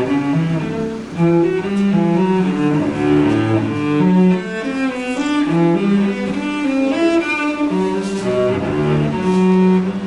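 Music played on low bowed strings, a cello-like melody over several sustained notes that change every second or so.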